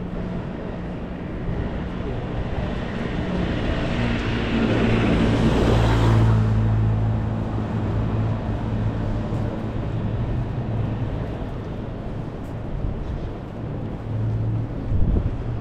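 A vehicle passing close by on a wet road: its tyre hiss swells to a peak about six seconds in and then fades, over a steady low engine hum of traffic.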